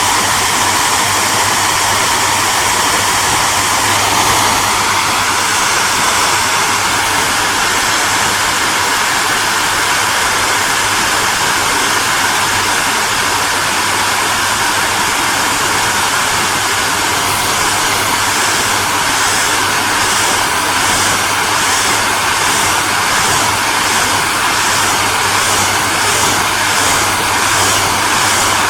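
Hair dryer running steadily: a constant loud rush of air from the fan with a low motor hum beneath it. The hiss lifts slightly in pitch a few seconds in, and in the second half its upper part pulses faintly and evenly.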